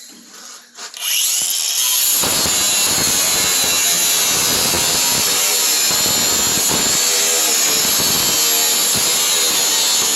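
Power tool starting about a second in and running steadily, cutting sheet metal, with a continuous high-pitched whine over the cutting noise.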